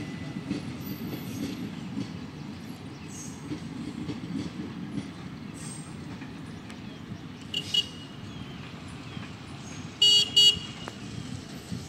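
Passenger train coaches rumbling past on the rails, the rumble easing as the last coach goes by and the train pulls away. Just after ten seconds in, two short, shrill horn toots are the loudest sound, with a briefer toot a little before them.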